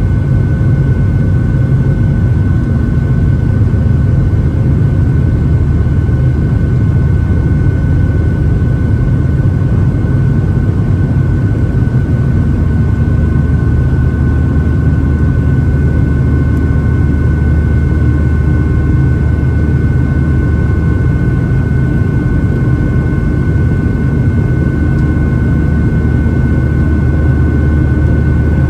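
Steady jet cabin noise inside a Boeing 737-700 in flight: a dense low rumble of its CFM56-7B turbofan engines and rushing air, with a steady high whine over it.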